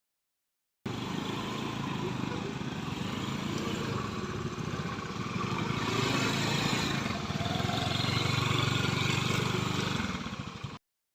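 Motorcycle engine running steadily, getting a little louder about halfway through; the sound starts and stops abruptly.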